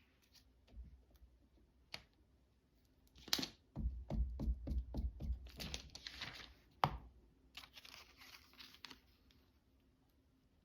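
Paper and craft materials handled on a tabletop: rustling and crinkling, a quick run of light taps, and a few sharp clicks.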